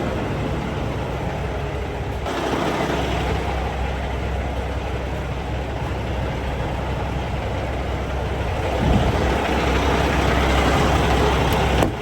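Heavy diesel truck engine idling steadily, with abrupt changes in the sound about two seconds in and near the end.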